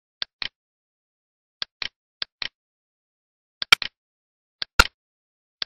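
Computer mouse button clicks: five quick press-and-release pairs, two of them louder near the end, with silence between.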